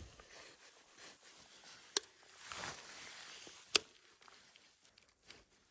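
Two sharp clicks about two seconds apart, with a soft rustling swell between them.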